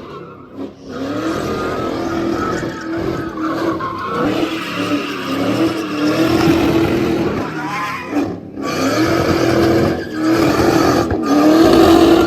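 A car drifting: the engine is held at high revs and the tyres squeal, with short breaks about eight and eleven seconds in.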